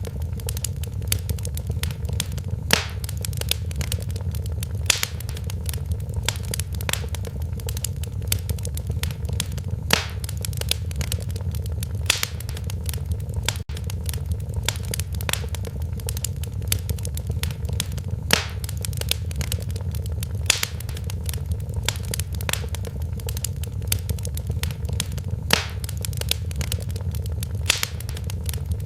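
Wood fire in a fireplace crackling, with frequent small snaps and a louder pop every few seconds over a steady low rumble.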